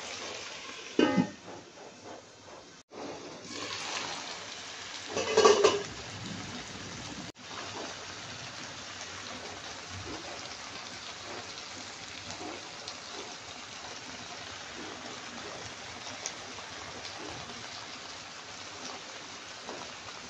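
Vegetables and pork frying in a wok, a steady sizzle, with two short louder sounds in the first six seconds.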